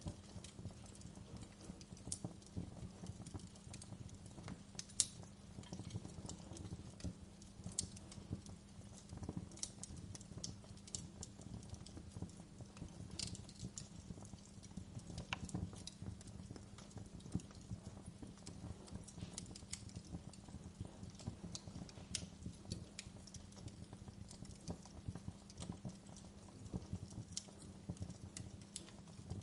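Wood fire crackling in a fireplace: irregular sharp pops and snaps over a low steady rumble. The loudest pop comes about five seconds in.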